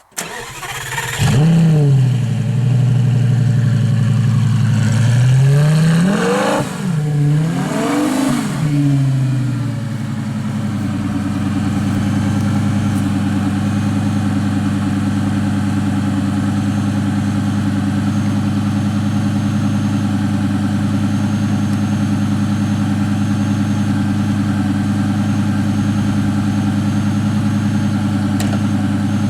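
2008 Lamborghini Gallardo Spyder's V10 engine starting with a quick flare of revs and dropping to idle. It is revved twice around six and eight seconds in, then settles into a steady idle.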